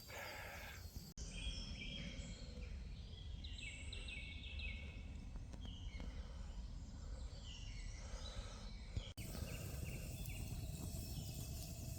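Wild birds chirping and trilling in woodland over a steady low rumble, with two brief dropouts in the sound, one just over a second in and one about nine seconds in.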